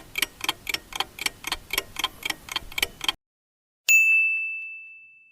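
Countdown-timer sound effect: clock ticks at about four a second stop about three seconds in. After a short silence a single bell ding rings and fades, marking time up.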